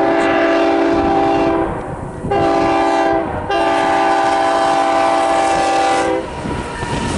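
Nathan Airchime K5HL locomotive horn, really loud, sounding a crossing pattern: the end of a long blast, a short blast, then a final long blast that stops about six seconds in, leaving the rumble of the passing train.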